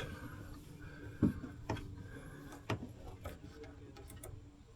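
A handful of light, sharp clicks and taps, roughly one every half second to a second, over a faint steady hum.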